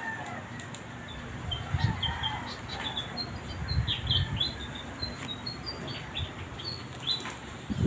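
Small birds chirping in quick short notes, many times over, with wind rumbling on the microphone and gusting louder now and then.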